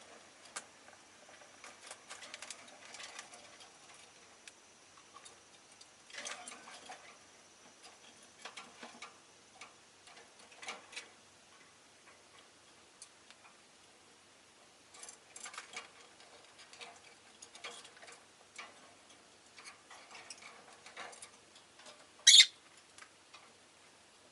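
Rosy-faced lovebirds making scattered soft ticks, clicks and short chirps, with one loud, sharp chirp near the end.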